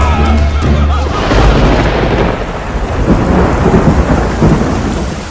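Thunder over heavy rain: a loud clap about a second in that rolls on and slowly fades.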